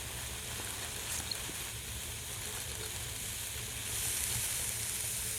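Steady sizzling hiss from the hot wood stove, growing a little louder about four seconds in, over a low steady rumble.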